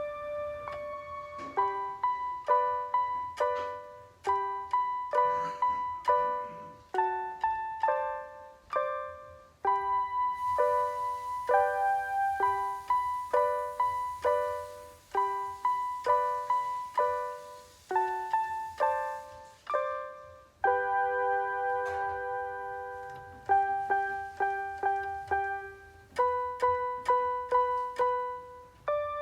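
Piano playing a simple beginner's piece in short, separate, often repeated notes, with a few longer held notes.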